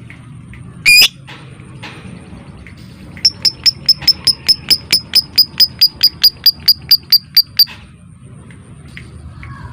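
Lovebird calling: one harsh squawk about a second in, then a long run of about twenty sharp, high chirps at about five a second, the rapid 'ngekek' chatter kept as training audio for lovebirds.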